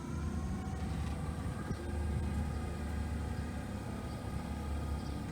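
Tour boat's motor running steadily with a low hum.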